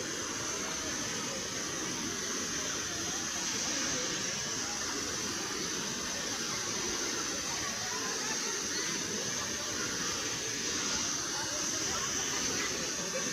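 Steady rush of a waterfall: even, unbroken water noise with a constant high-pitched hiss on top.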